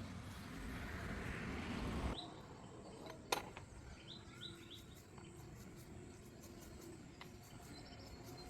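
A car engine running that cuts off abruptly about two seconds in, followed by faint bird chirps and one sharp click.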